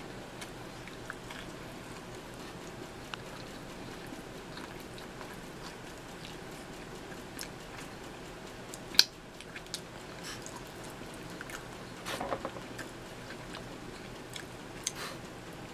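A person chewing and biting sausage and pepperoni pizza: soft wet mouth clicks and smacks over a steady background hiss. There is one sharp smack about nine seconds in and a denser burst of chewing a little after twelve seconds.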